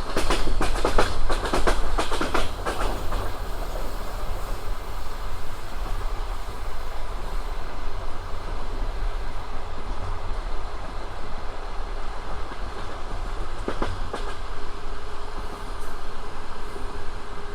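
Passenger train wheels clattering over rail joints, a quick cluster of knocks in the first few seconds, then the carriage rolling on with a steady rumble and another single knock near the end.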